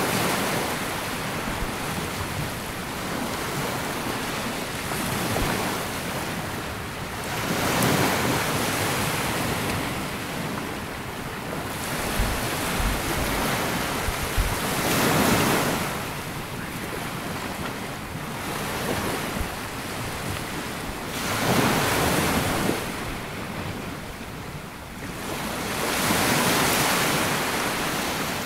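Small sea waves breaking and washing up a sandy beach, one swell every six or seven seconds over a steady hiss of surf, with some wind on the microphone.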